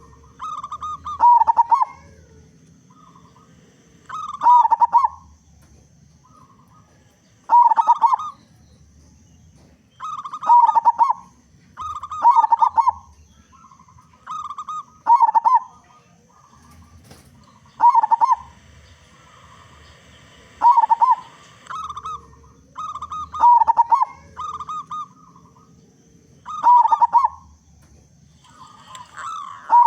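Zebra dove (perkutut) singing its loud cooing song: short rapid clusters of coos repeated every two to three seconds, about a dozen phrases in all.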